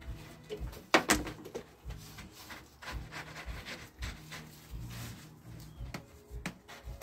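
Two sharp knocks close together about a second in, with scattered lighter clatter and low rumbling handling noise.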